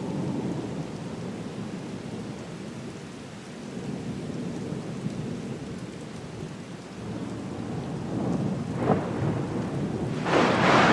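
Steady rain with a low rolling rumble of thunder that grows louder in the second half. A sharp crack comes about 9 seconds in, and a loud thunderclap breaks just before the end.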